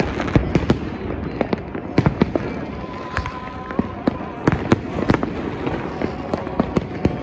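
Fireworks going off all around: many sharp bangs and cracks at irregular intervals, several a second, over a constant rumble of more distant explosions.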